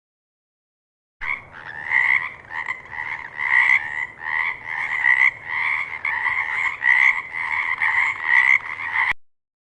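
Frog croaking in a steady repeated rhythm of about two calls a second. The call starts suddenly about a second in and cuts off abruptly near the end.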